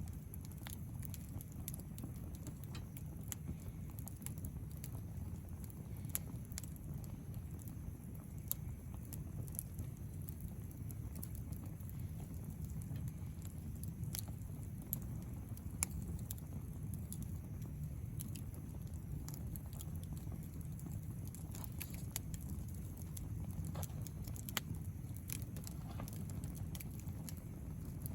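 Wood campfire crackling: irregular sharp pops and snaps scattered over a steady low rumble.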